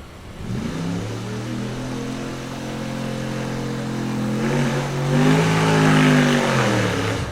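Drag car engine at high revs: it comes up quickly about half a second in and holds a steady pitch. It gets louder around five to six seconds in, then its pitch falls away near the end.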